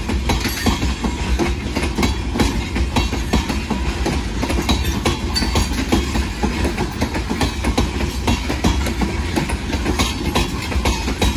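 Freight train of open-top hopper cars rolling past close by: a steady rumble of steel wheels on rail, with frequent irregular clicks and clanks as the wheels run over the track.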